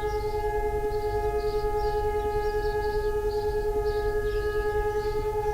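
Israeli Memorial Day civil-defense siren sounding one steady, unwavering tone, held throughout.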